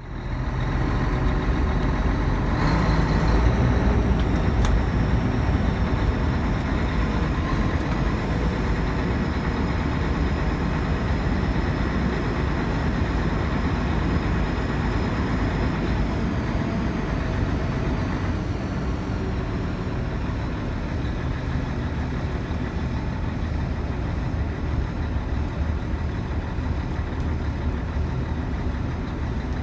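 Scania K112CL coach's 11-litre six-cylinder diesel engine running steadily, a low rumble with a faint high whine over the first half.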